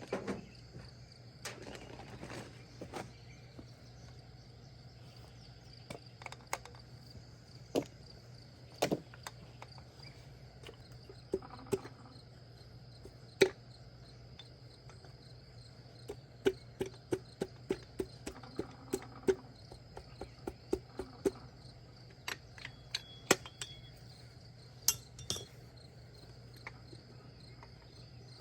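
Scattered metallic clinks and clicks of hand tools and parts being handled during engine work, with a run of about a dozen quick ticks a little past the middle. Crickets chirp steadily in the background.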